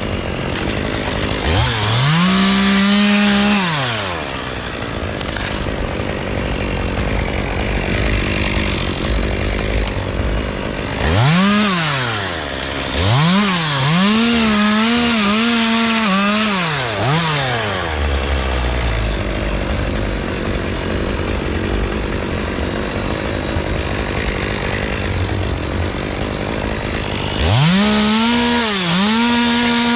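Two-stroke chainsaw revved to full throttle in repeated bursts, cutting palm fronds. It revs once near the start, again for a long stretch in the middle with the engine speed dipping and rising under load, and again near the end, dropping back to a lower, rougher running between.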